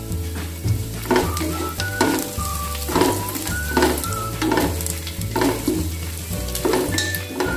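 Food sizzling as it fries, under background music with a changing bass line, a high melody and a regular beat.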